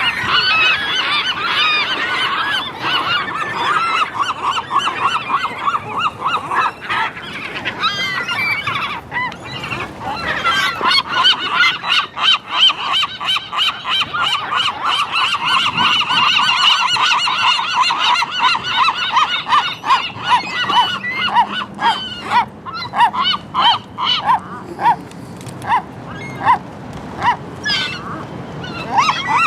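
A flock of gulls calling over one another in rapid short calls, thinning toward the end into more separate calls.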